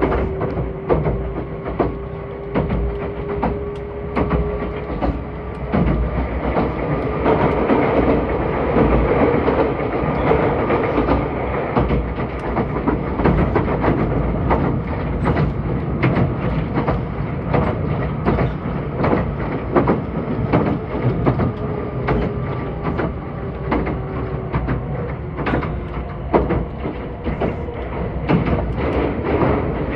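Meitetsu 2000 series μSKY electric train running at speed: a steady rumble with wheels clicking over the rail joints, and a faint whine that comes in during the first few seconds and again a little past midway.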